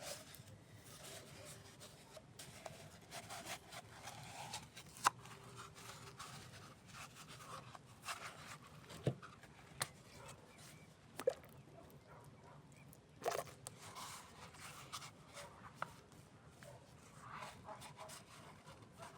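Wood campfire crackling faintly, with scattered sharp pops every second or few.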